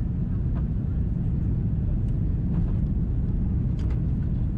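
Cabin noise of an Airbus A330 on its landing rollout just after touchdown: a steady low rumble of wheels on the runway and the engines, with a few faint rattles of cabin fittings.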